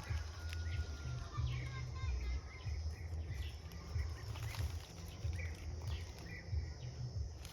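Forest ambience: faint, scattered bird calls and chirps from the trees over an uneven low rumble.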